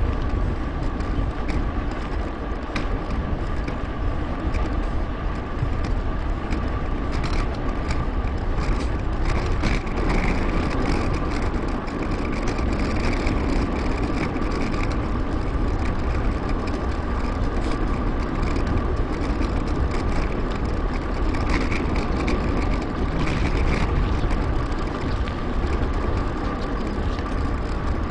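Steady rush of wind and tyre rolling noise from a mountain bike riding along a paved path, with scattered clicks and a faint steady tone underneath.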